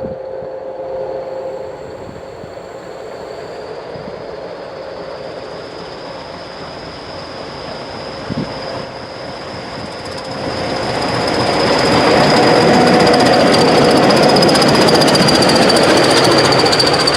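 A train approaching and running past close by. A steady high ring from the rails and wheels is heard throughout, and a loud rattling clatter builds from about ten seconds in.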